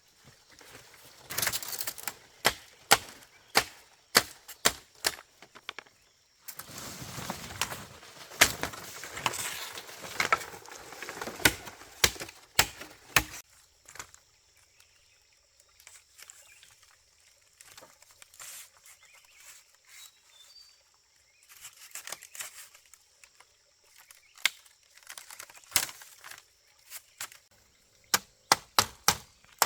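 A series of irregular sharp knocks and cracks, thicker and mixed with a rough noise through the first half, sparser and quieter after that.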